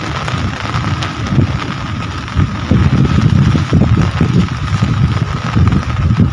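Rain falling steadily, under an uneven low rumble that swells and fades.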